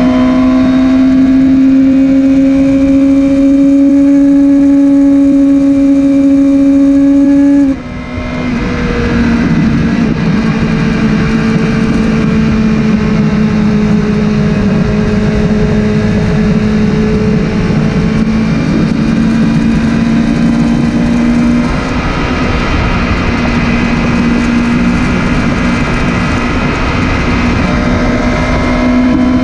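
Motorcycle engine running steadily under way. About eight seconds in the note drops off sharply, as when the throttle is closed or a gear is changed. It then holds at a slightly lower pitch and climbs again near the end.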